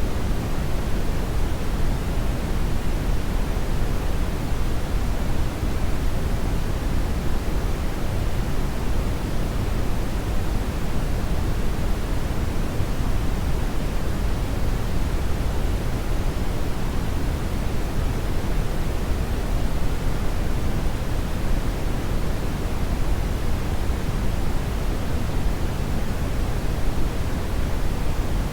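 Hair dryer blowing steadily: an even, unbroken rush of air noise, heaviest in the low end, with no audible motor whine standing out.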